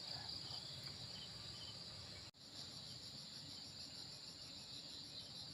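Insects chirring steadily in a high continuous drone. A brief sudden dropout comes about two seconds in, after which a higher, regularly pulsing chirp of about five beats a second joins in.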